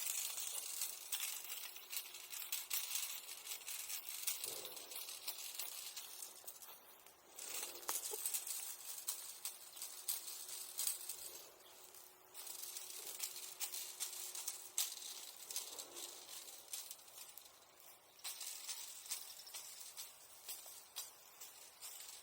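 Bonfire embers crackling: a dense, irregular run of small sharp crackles and ticks over a soft hiss.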